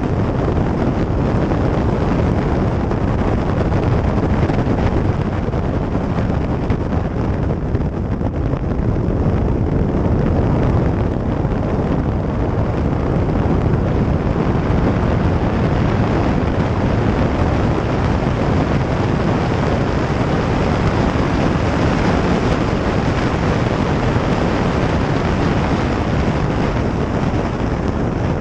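Steady rushing noise of a moving vehicle with wind buffeting the microphone.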